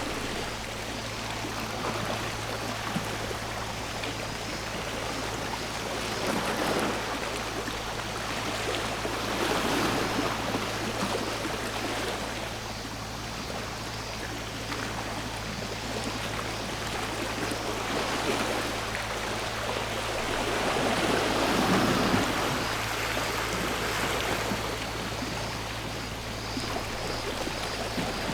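Sea waves washing onto the shore, the wash swelling and falling back several times.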